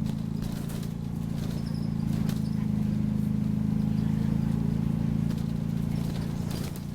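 Optare Solo bus engine running steadily under way, heard from inside the passenger cabin, with a few brief sharp rattles over it.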